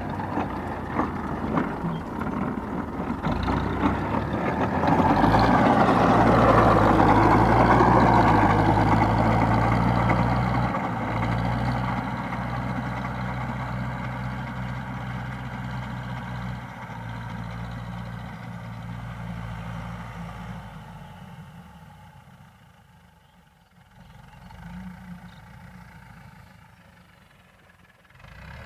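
Tractor engine running steadily. It grows to its loudest several seconds in, then fades away over the rest, faint near the end.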